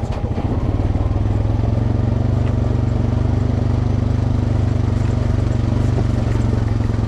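Off-road trail vehicle's engine running steadily in a low gear just after a downshift, a constant low drone that settles within about the first second.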